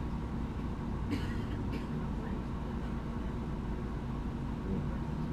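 MAN Lion's City G articulated bus's diesel engine running with a steady low drone, with two short hisses about a second in.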